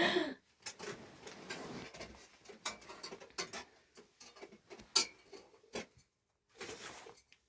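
Irregular light clicks and taps, with a stretch of soft rustling in the first couple of seconds.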